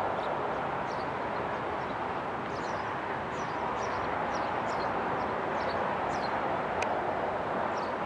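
Small birds chirping again and again over a steady outdoor rush of background noise, with one sharp click near the end.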